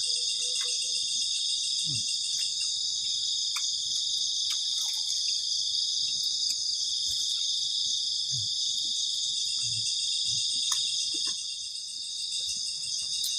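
A loud night chorus of crickets, trilling steadily and without a break, with a few faint scattered clicks beneath it.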